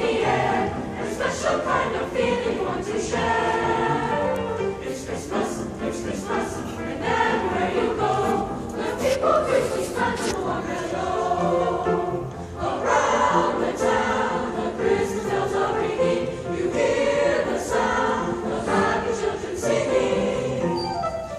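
A school choir singing a song together.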